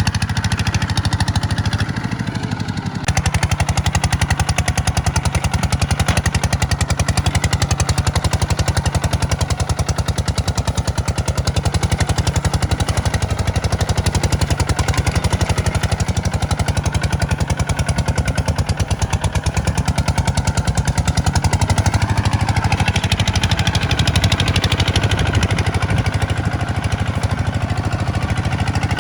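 Kubota tractor's diesel engine running steadily under load while ploughing, with a fast, even knock, dipping briefly about two seconds in.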